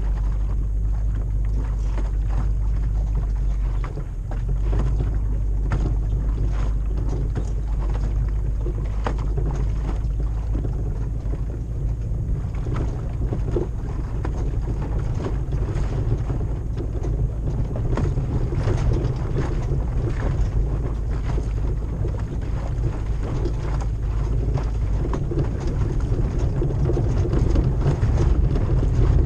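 Toyota LandCruiser 100 series 4.7-litre 2UZ-FE V8 running through a full exhaust while driving, a steady low V8 rumble with scattered knocks and rattles over rough ground and a brief dip in level about four seconds in.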